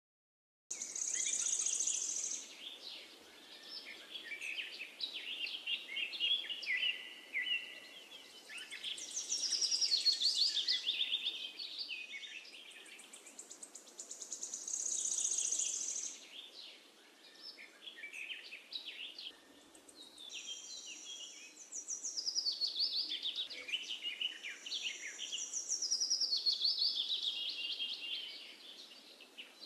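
Several birds chirping and singing: a dense chorus of quick high chirps and trills over faint background hiss, starting suddenly about a second in and swelling and fading every few seconds.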